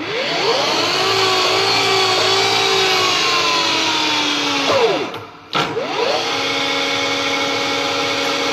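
Electric motor of a shop machine tool, switched to high speed, spinning up to a steady whine. About five seconds in it winds down and stops, then starts again at once and runs steady.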